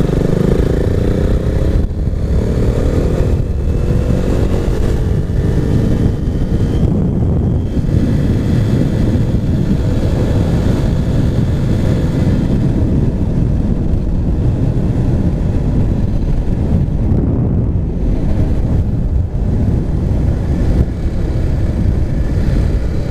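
Husqvarna Svartpilen 401's single-cylinder engine running through an aftermarket Arrow exhaust while riding: the engine note falls over the first few seconds, then holds steady at cruise with a dense low rumble.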